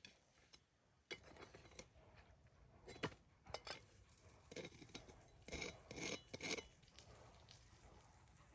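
Quiet handling sounds: a few sharp clicks and short scraping, clinking bursts, the loudest a little past the middle.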